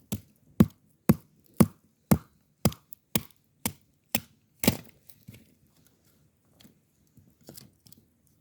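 Wood being chopped: about ten sharp, evenly spaced strikes, two a second, followed by a few fainter knocks.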